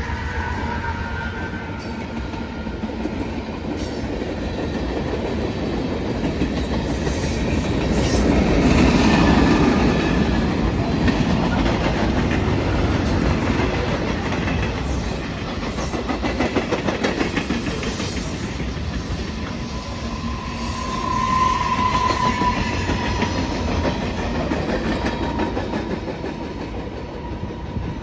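A train passing, its wheels clicking steadily over the rail joints. It grows loudest about a third of the way through, and a brief high tone rings out about three quarters of the way in.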